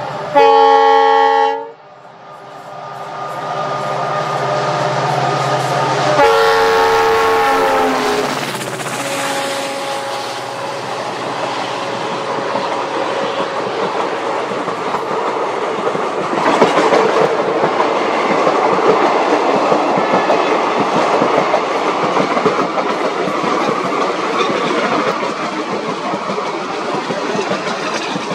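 Passing express train: the locomotive horn gives a short loud blast, then a second, longer blast about six seconds in that drops in pitch as the train goes by. Then the steady rumble and clatter of the coaches running past on the rails.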